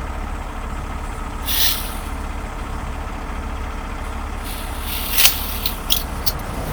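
Heavy truck diesel engine idling with a steady low rumble. A short hiss comes about a second and a half in, and a few sharp clinks near the end.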